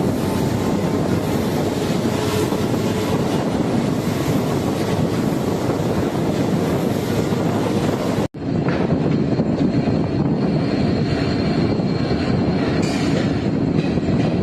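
Passenger train running behind an EMD WDP4D diesel locomotive, its 16-cylinder two-stroke engine humming steadily under the wheel and track noise of the coach. The sound cuts out for an instant just past halfway, then carries on.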